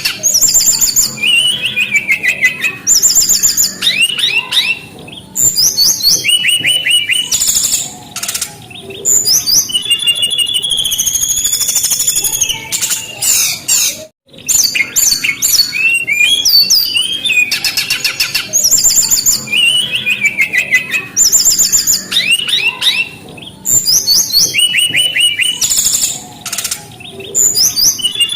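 Brown-chested jungle flycatcher singing a fast, varied song of chirps, quick trills and whistled notes, broken by short pauses. About halfway through there is a brief cut, and the same run of song starts over, as in a looped recording.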